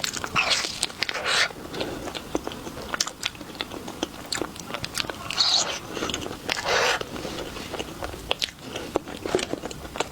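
Close-miked mouth eating chocolate treats: crunchy bites and chewing, with many small sharp clicks and a few longer crunches.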